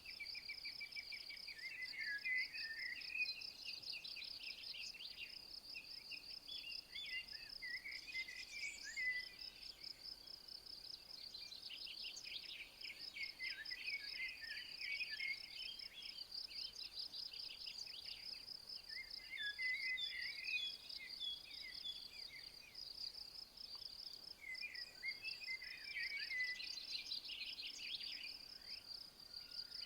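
Insects chirring steadily in a fast, even pulse, with birds singing short varied phrases now and then over it.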